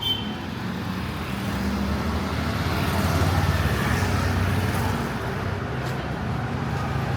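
Street traffic: a motor vehicle's engine running close by over general street noise, growing louder to a peak about halfway through and easing a little after.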